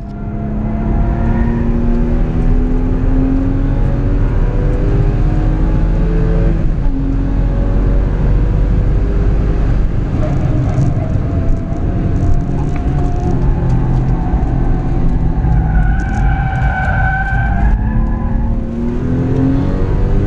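Porsche 996's flat-six engine heard from inside the cabin while it is driven hard on track: the revs climb over the first several seconds, ease off and vary through the middle, then climb again near the end. Around two thirds of the way through, a high squeal from the tyres lasts a second or two.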